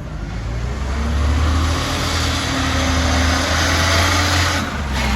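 Garbage truck's diesel engine running, growing louder about a second in, with a brief dip near the end.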